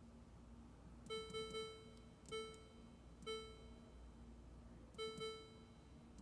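Zircom sintering furnace's control-panel keys beeping as buttons are pressed to enter a course name letter by letter. There are seven short beeps, all at the same pitch: three quick ones about a second in, two single ones, and a pair near the end. Faint background music plays under them.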